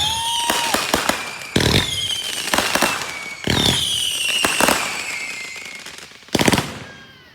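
Aerial fireworks going off: four loud bangs about two seconds apart, each followed by crackling and a high whistle falling in pitch.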